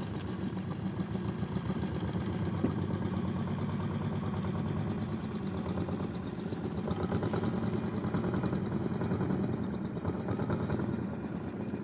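Small boat's motor running steadily, with a fast, even chugging pulse.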